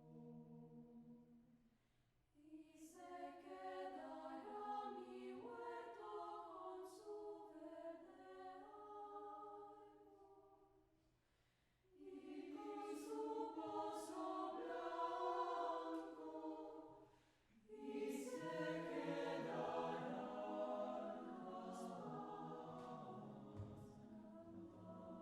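Vocal ensemble singing unaccompanied in several-part harmony. A held chord fades out about two seconds in, and new sung phrases begin at about two, twelve and eighteen seconds, each after a short near-silent pause.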